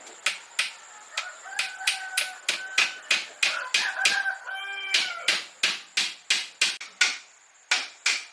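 Repeated sharp knocks, about three a second, with a chicken calling in a long drawn-out call from about a second and a half in to about five seconds.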